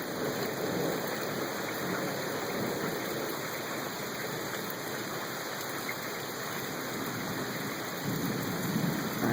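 Rain falling steadily during a thunderstorm, with low rumbles of thunder, the strongest building near the end.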